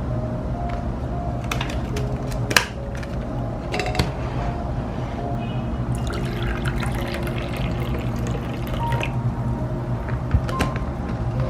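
Liquid being poured into a container for about three seconds, starting a little past halfway, over soft background music, with a few light clicks before it.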